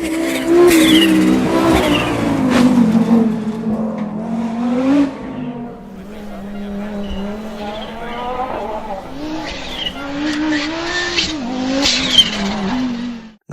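Audi Sport Quattro S1 E2's turbocharged inline five-cylinder engine revving hard and falling back again and again through gear changes, with sharp cracks on the shifts.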